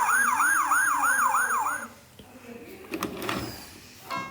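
Electronic siren of a VTech Toot-Toot Drivers toy fire engine, a fast repeating rising whoop about three to four times a second that stops about two seconds in. A click and a short rattle follow near the end.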